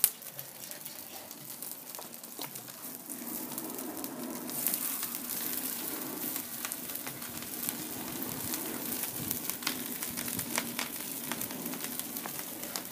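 Gasoline-fuelled fire burning, a steady hiss with frequent sharp crackles that grows brighter and louder about five seconds in.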